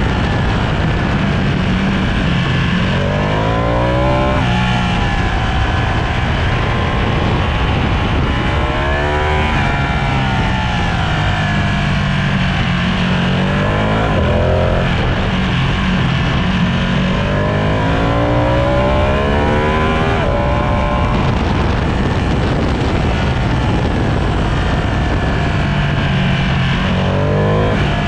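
Sport motorcycle engine being ridden hard on a race track, its pitch climbing steeply several times as it accelerates through the gears and dropping back between runs as it shifts down and brakes.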